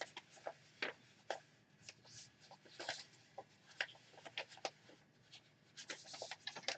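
Faint rustling and light taps of paper being handled and pressed into place as cut-out paper hands are glued on, in short scattered bursts.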